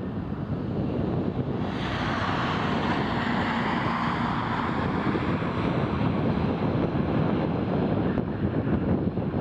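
Jet airliner engines: a broad rushing noise with a faint whine above it comes in about two seconds in and holds steady, over constant wind noise on the microphone.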